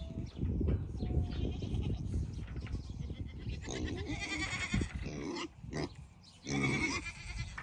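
Goats bleating: a few calls, one about four seconds in and a louder one near the end.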